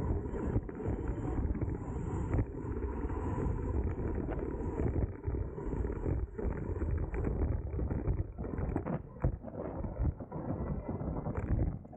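Wind buffeting a bicycle-mounted camera's microphone at race speed, an uneven low rumble, with occasional small clicks and rattles from the bike.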